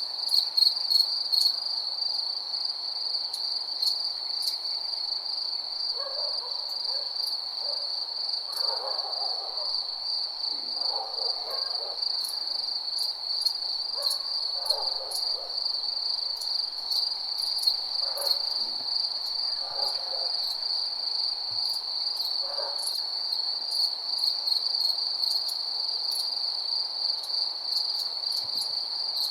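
Night insects trilling in a steady, high, continuous chorus, with faint scattered clicks. From about six seconds in until a little past twenty seconds, a run of short, lower calls comes and goes over it.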